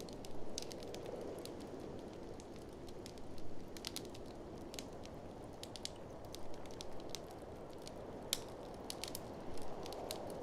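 Wood fire crackling, with scattered sharp pops in small clusters, over a steady low rush of blizzard wind.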